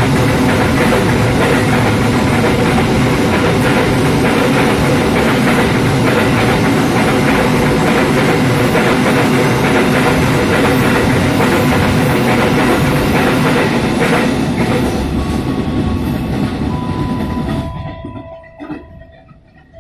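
An empty train passing straight through the station, its wheels and wagons making a loud, steady rail rumble. The noise cuts away sharply near the end as the train clears, leaving a few thin ringing tones.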